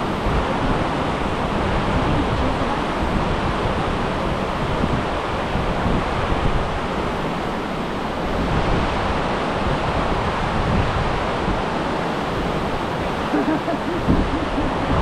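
Steady rushing roar of Multnomah Falls, a loud, unbroken wash of falling water.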